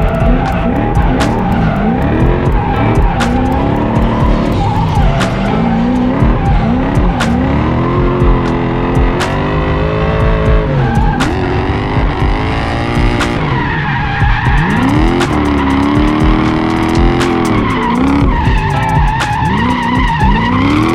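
Drift truck's engine revving up and falling back again and again with tyre squeal as it drifts.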